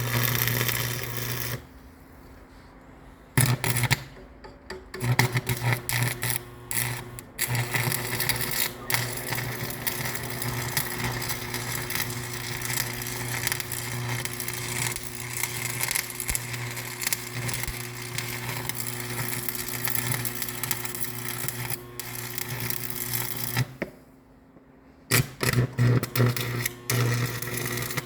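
An electric machine motor running with a steady hum, stopping twice for a second or two, with clicks and knocks around the stops and restarts.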